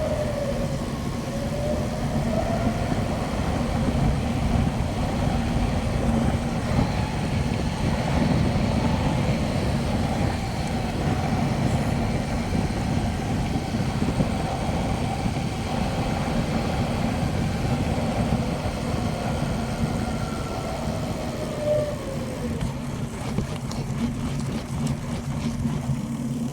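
Wind buffeting the microphone and tyre rumble from a bicycle rolling along a paved road, a steady noise with a low hum underneath.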